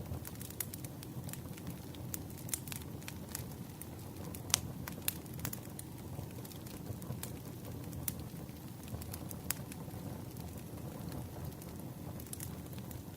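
Wood campfire crackling: a steady low rumble of burning logs with frequent, irregular sharp pops and snaps, the loudest about four and a half seconds in.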